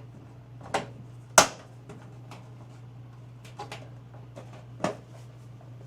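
Several separate sharp knocks and clicks, the loudest about one and a half seconds in, from tools and bracket hardware being handled while the washer-dryer's mounting bracket is fitted, over a steady low hum.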